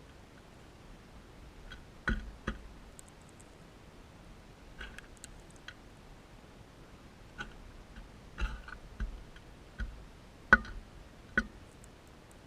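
Crimson rosella cracking seed with its beak: irregular sharp clicks and knocks, about ten in all and several in quick pairs, with a few faint high chirps.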